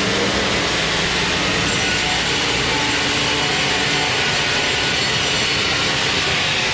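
Sawmill machinery running loudly and steadily, a saw cutting wood, with the sound turning brighter and hissier about two seconds in.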